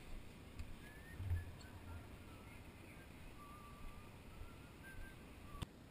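Faint, scattered bird chirps, short high notes at irregular intervals, over a low steady background, with a few dull low thumps and one sharp click near the end.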